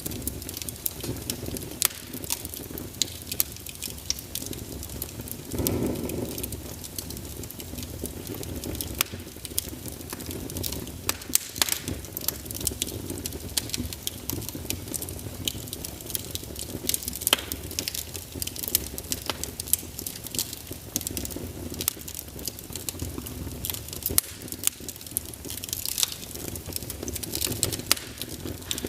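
Wood fire burning in a fireplace: logs crackling and popping at irregular intervals over a low steady hiss of flames, with a brief louder whoosh about six seconds in.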